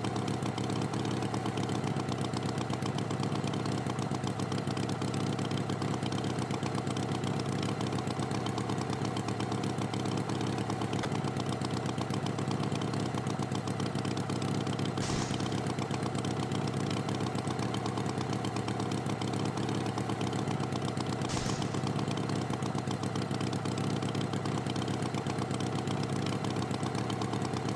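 Tractor engine running steadily at idle. Two brief clicks sound over it, about halfway through and again some six seconds later.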